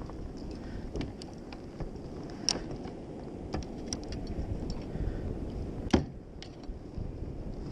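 Scattered light clicks and knocks of gear being handled on a kayak, with one sharper knock about six seconds in, over a low steady rumble of wind and water.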